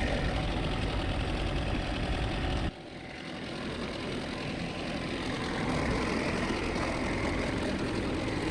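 Diesel engine running steadily. It drops off abruptly a little under three seconds in, then comes back quieter and builds up to a steady level again.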